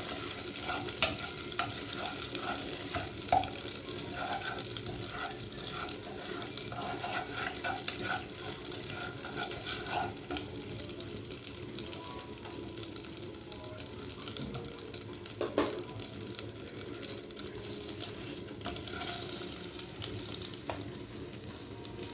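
Kitchen cooking noise: a steady hiss with scattered clinks and knocks of utensils and cookware.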